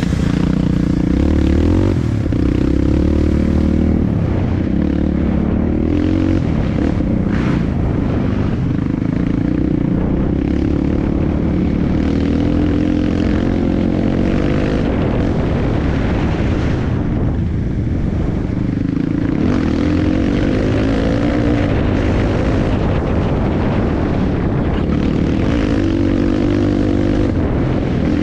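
Dirt bike engine running under way on a trail, its pitch rising and falling as the throttle is opened and closed.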